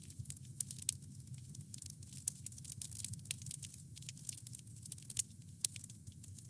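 Campfire wood burning, crackling with frequent irregular sharp pops over a steady low rumble of the flames.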